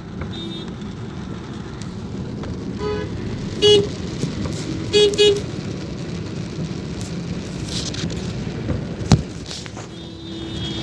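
Steady rain and road noise from a car being driven in the rain, with a car horn honking once about a third of the way in and twice in quick succession around the middle. A single sharp knock near the end.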